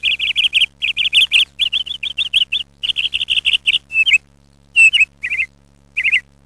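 A small bird chirping in quick runs of short, high notes, about five to eight a second, with a gap and a few separate calls near the end. A faint steady hum lies underneath.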